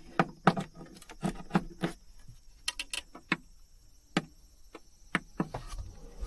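A string of irregular sharp clicks and light knocks, a dozen or so, bunched in the first couple of seconds and again around the middle, like small plastic and hard objects being handled in a van's cabin.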